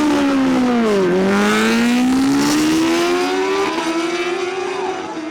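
Superbike engines at high revs as the bikes run down the drag strip. The pitch drops about a second in, then climbs steadily as they keep accelerating, and levels off near the end.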